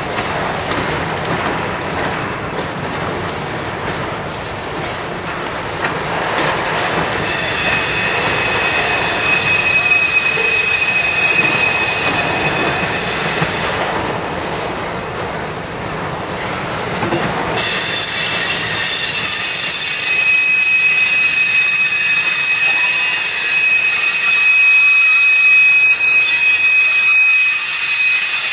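Covered hopper cars of a long CSX grain train rolling past, a steady rumble and clatter of wheels on rail. A high, steady wheel squeal sets in about seven seconds in, breaks off for a few seconds near the middle, and returns louder.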